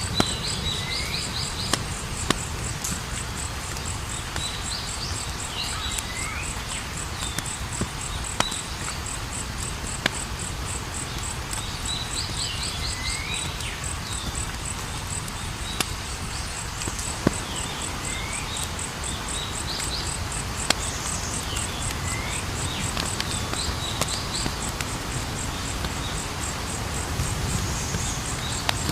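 Campfire burning with a low steady rush and about ten sharp crackling pops scattered through it. Crickets trill steadily and high behind it, and a bird calls in short repeated chirping phrases every few seconds.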